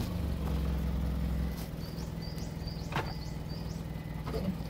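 Mitsubishi Pajero iO's engine idling steadily, a little louder for the first second and a half and then settling lower. Near the middle comes a quick run of about six short, high, rising chirps.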